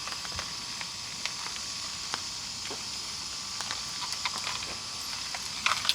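A steady hiss with scattered light ticks and clicks running through it.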